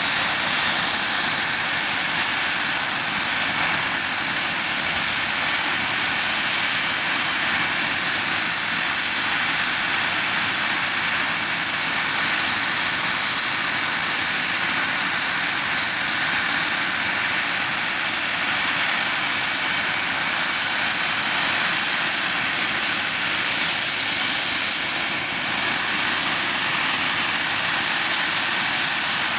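Hawker Siddeley Nimrod MR2's Rolls-Royce Spey turbofan engines running steadily on a ground run: a loud, even rush with a steady high-pitched whine over it.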